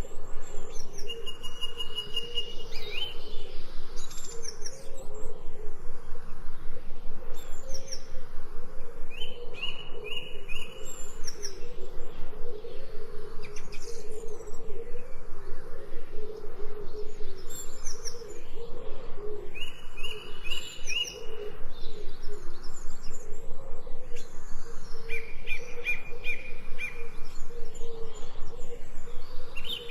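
Songbirds singing: repeated short trilled phrases and high, quickly falling whistles come every second or two, over a steady low background sound.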